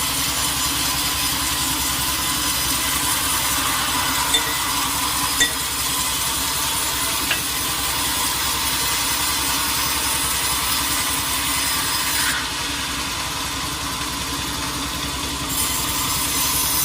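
Sawmill saw cutting through a teak log: a steady sawing hiss with a few sharp clicks in the middle, the highest part of the sound dropping away for about three seconds near the end before coming back.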